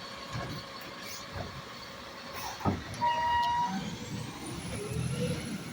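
Garbage truck working: a low engine rumble, a sharp clunk a little before halfway, then a short steady beep.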